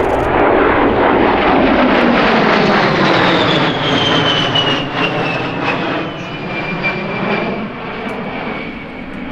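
An airplane flying past: loud engine noise with a high whine that falls steadily in pitch as it goes by, easing off over the last few seconds.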